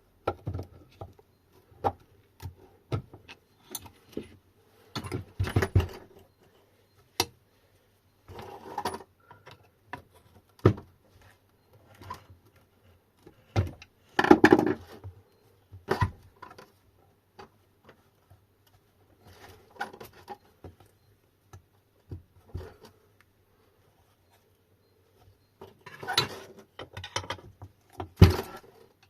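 Intermittent metallic clinks, taps and scrapes of hand tools working at an electric motor's side cover, with a few louder knocks, the loudest near the end.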